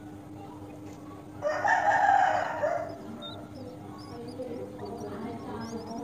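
A loud bird call about a second and a half in, lasting a little over a second, then faint, short high chirps near the end.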